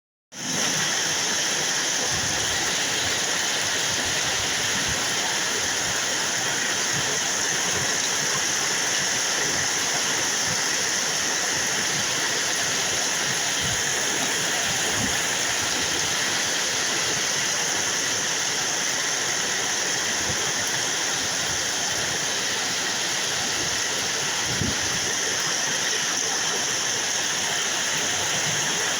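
Heavy rain falling steadily, a continuous even rush of water with a few faint low knocks scattered through it.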